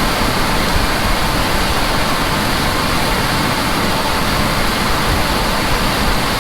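Harvest machinery running steadily in the field, heard as a loud, even rushing noise with a faint steady whine.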